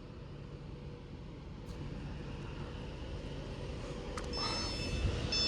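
Class 390 Pendolino electric train running into the station: a low rumble that slowly grows louder, with a high squealing tone joining about four seconds in.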